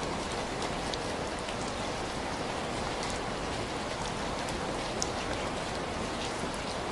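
Steady rain, a dense even hiss, with a few small sharp crackles of a wood fire scattered through it.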